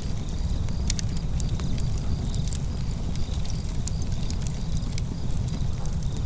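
Wood fire burning, with frequent sharp, irregular crackles and pops over a steady low rumble.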